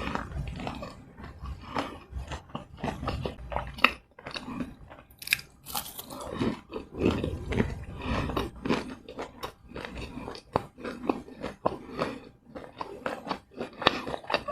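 Close-miked eating: a mouth biting and chewing fried snacks, with a dense, irregular run of crisp crunches and wet chewing sounds.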